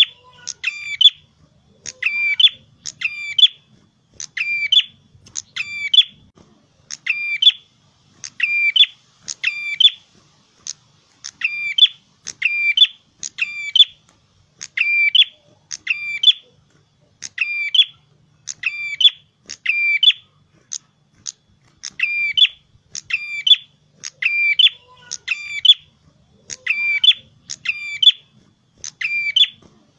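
A prenjak kepala merah (red-headed prenjak, a small tailorbird-type songbird) calling in full, continuous song. It gives loud, sharp, high call notes in quick clusters, roughly one cluster a second, repeated without pause.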